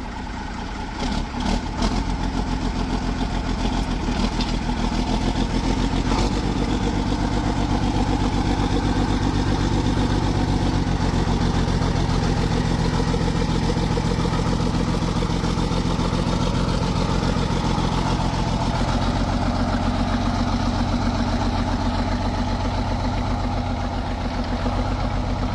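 Case 1370 tractor's diesel engine running through a straight pipe, freshly started after sitting for a month. It picks up speed about two seconds in, after a few short knocks, then runs steadily.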